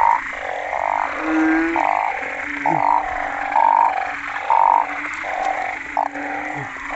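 A chorus of banded bullfrogs calling loudly after rain. Short croaking calls about half a second long repeat roughly once a second over a steady drone of many more frogs calling.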